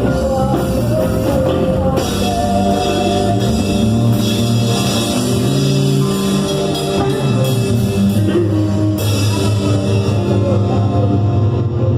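Live church worship band playing a rock-style praise song with guitar and drum kit; the cymbal brightness drops away about ten seconds in.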